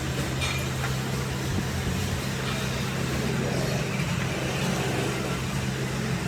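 A machine running steadily with a low, even hum, with a few faint light clicks over it.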